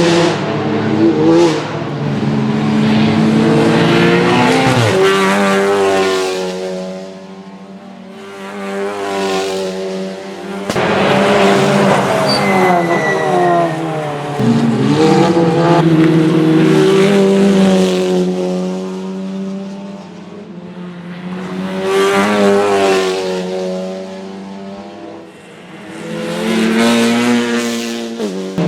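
Touring race cars passing one after another at racing speed. Their engines rev up and drop in pitch through gear changes, and the sound swells and fades with each pass, about five or six times.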